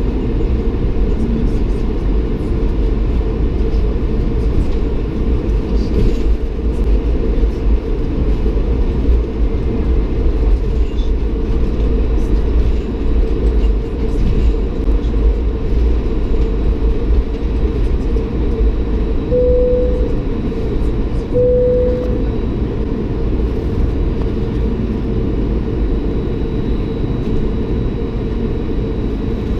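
Steady low rumble inside the cabin of a Bombardier CS300 airliner as it runs on the ground just before takeoff, its engines and wheels giving an even drone. Two short, steady tones sound about two-thirds of the way through.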